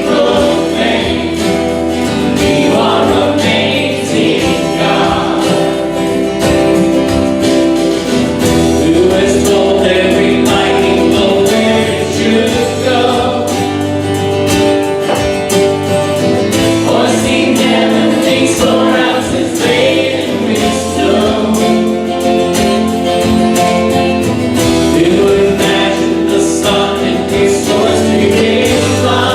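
Congregation singing a worship song together with a band, guitar accompanying, continuous throughout.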